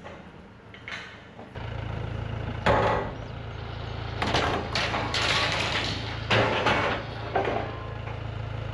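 An engine runs with a steady low hum that comes in about a second and a half in, with a series of loud knocks and clattering noises over it.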